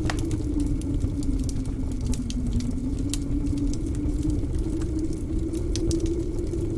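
Wood fire crackling in a fireplace, with scattered sharp pops, over a steady low howl of blizzard wind that slowly wavers in pitch.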